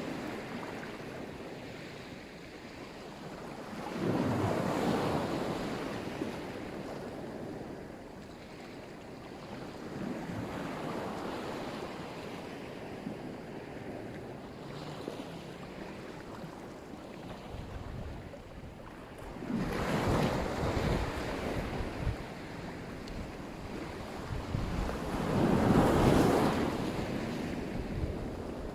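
Black Sea surf: waves breaking on the shore and washing back in slow swells, the largest a few seconds in, again about twenty seconds in, and near the end. Wind rumbles on the microphone through the second half.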